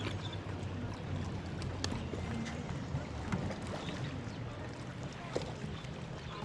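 Water sloshing around a kayak, with a steady low rumble and a few light knocks.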